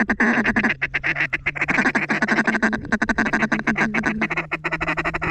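Mallard duck calls blown in a fast, continuous feed-call chatter, with more than one call going at once at two pitches; it stops abruptly just after the end.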